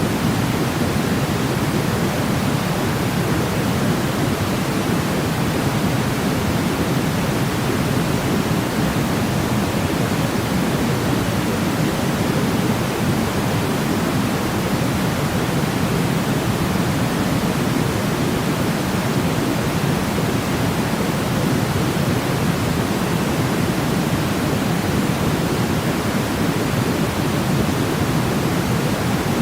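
Continuous white-noise sleep sound: an even, unchanging hiss with its weight in the low range, giving a deep, rumbling shush rather than a bright one.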